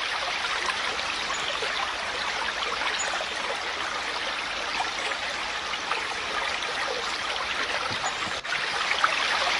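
Steady sound of running water, like a flowing stream, played as a recorded sound effect.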